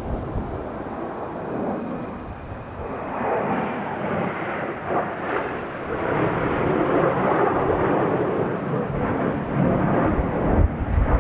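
Jet roar of the Blue Impulse team's Kawasaki T-4 jet trainers passing overhead. It swells about three seconds in and stays loud, with wind buffeting the microphone near the end.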